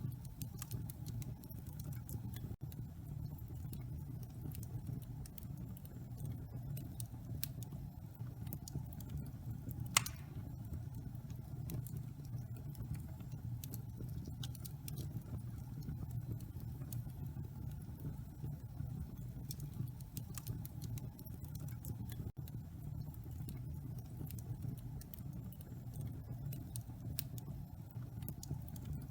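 Fire burning in a fireplace: a steady low rumble with scattered crackles and small pops, one sharper pop about ten seconds in.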